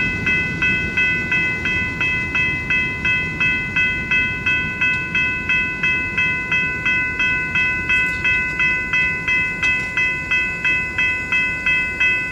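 Railroad grade-crossing warning bell ringing steadily at about three strokes a second, a low rumble beneath it.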